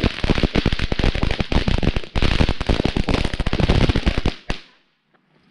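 Small garden fountain firework burning with a dense, rapid crackle of many small pops. It cuts off about four seconds in, with one last pop just after.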